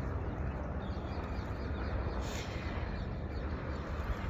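Steady outdoor rumble and hiss of wind, with short bird calls repeating faintly over it.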